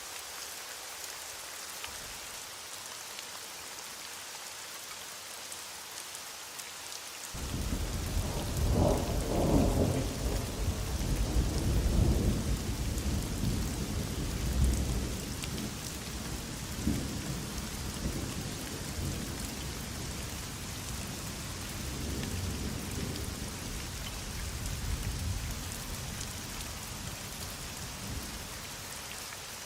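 Heavy rain falling steadily. About seven seconds in, a thunderclap breaks into a long rolling rumble that is loudest over the next few seconds, then fades away in uneven swells over the following twenty seconds.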